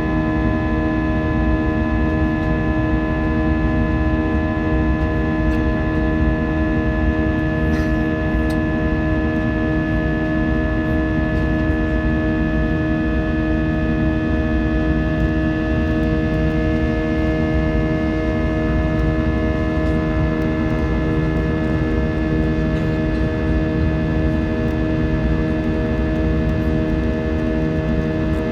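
Airliner cabin noise: the jet engines running with a steady drone and several fixed whining tones over a low rumble, with a few faint rattles about eight seconds in.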